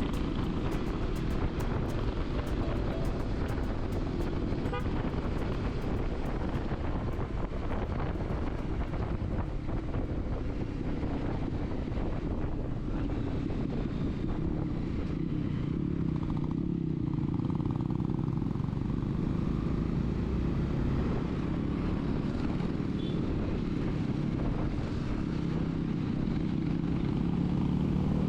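Motorcycle engine running steadily under way, with road and wind noise. Right at the end its note starts to rise as it accelerates.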